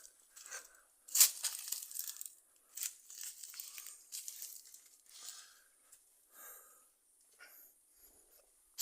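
Irregular crunching and crackling of dry leaves, twigs and brush underfoot as people walk through the forest, the loudest crunch about a second in.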